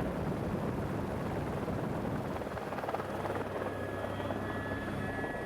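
Helicopter in flight: a steady low drone of engine and rotor.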